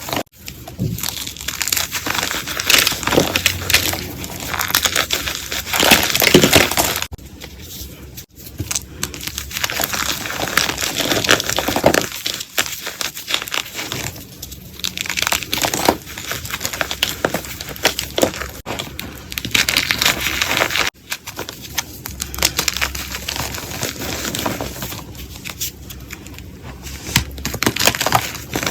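Blocks of gym chalk being crushed and crumbled up close, a dense gritty crunching and crackling. It breaks off abruptly about 8 and 21 seconds in as one crushing clip gives way to the next.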